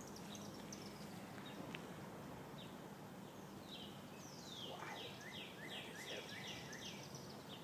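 A songbird singing a run of about nine quick descending whistled notes, about three a second, over the second half. Under it runs the faint steady hum of honeybees around the open hive.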